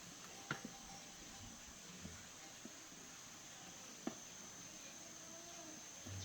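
Quiet background with a steady high-pitched hiss, broken by a few light clicks, the sharpest about half a second in and again about four seconds in.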